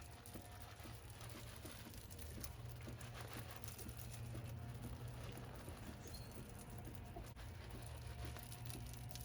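Chickens pecking and scratching at the ground: faint, scattered light taps over a steady low hum.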